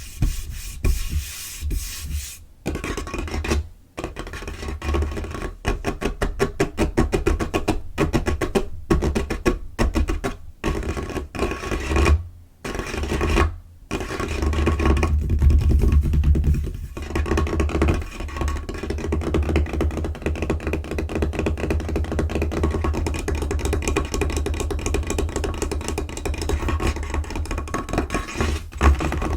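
Fingers and nails tapping fast on a tabletop, with quick scurrying and scratching across the surface in between. The taps come in rapid runs with dull low thuds.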